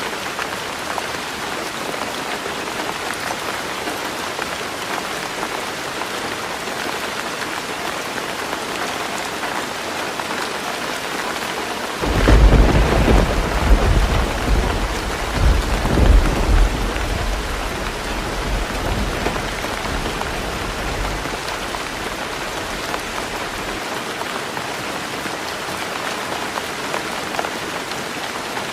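Heavy rain drumming steadily on a tin roof. A little before halfway a clap of thunder breaks in suddenly and rumbles loudly for several seconds, swelling twice, before fading back under the rain.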